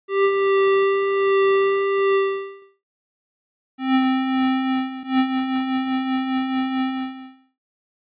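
Surge XT software synthesizer playing two held notes: a higher note for about two and a half seconds, then, after a short gap, a lower note for about three and a half seconds with a pulsing wobble in its loudness.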